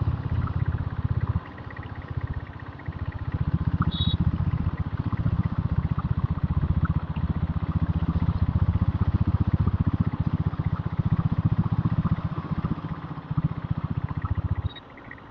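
Diesel Royal Enfield Bullet motorcycle engine running under way, a rapid, even low firing beat through its replacement silencer, which makes the bike quiet, like a normal bike. The beat eases off briefly about a second and a half in and drops away sharply near the end.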